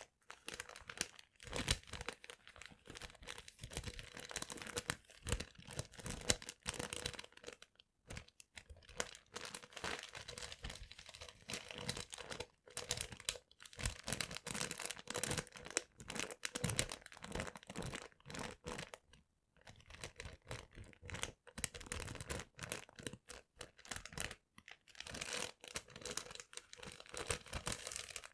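Close-miked paper being handled, crinkling and crumpling with ragged tearing sounds, in irregular crackly bursts broken by short pauses.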